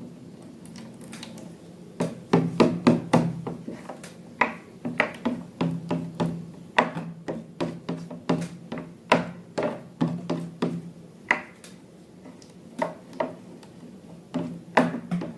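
A run of sharp taps and knocks, two to four a second, over a low steady hum, starting about two seconds in.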